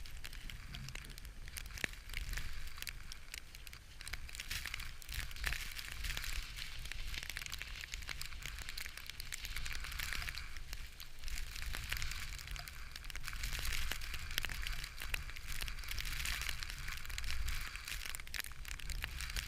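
Strong wind rumbling on the microphone, with continual crackling and rustling over it.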